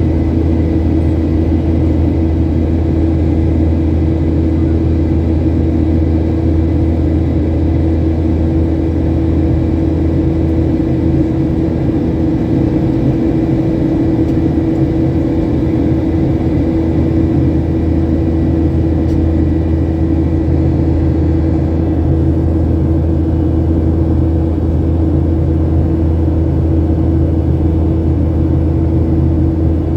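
Steady cabin drone of a Boeing 737-800 in flight: the CFM56 jet engines' hum with the rush of air past the fuselage, holding an even, unchanging pitch with a faint high whine on top.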